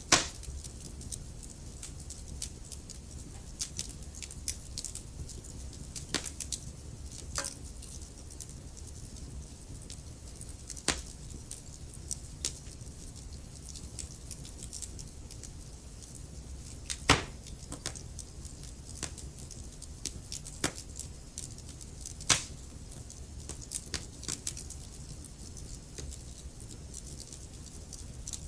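Wood fire burning in a fireplace: logs crackling with frequent small, irregular snaps and a few louder pops, over a low steady rumble of the flames.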